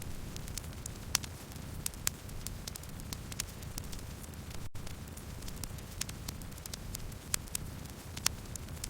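Campfire burning, with irregular sharp crackles and pops, a few louder snaps, over a steady low rumble of the flames. About halfway through the sound cuts out for a split second.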